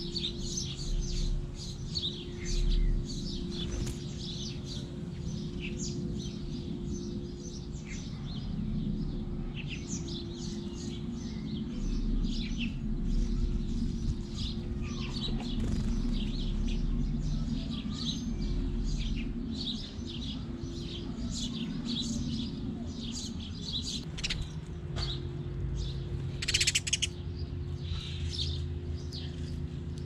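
Small garden birds chirping almost without pause, many short rapid chirps, with a louder burst of chirping near the end. Under them runs a steady low hum.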